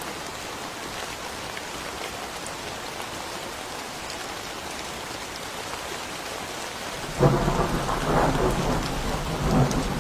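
Steady rain falling. About seven seconds in, a sudden crack of thunder breaks in and goes on rumbling loudly.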